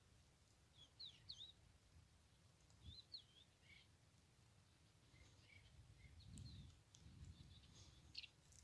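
Faint, scattered bird chirps, short warbling calls about a second in, around three seconds in and again late on, over a low rumble of wind on the microphone.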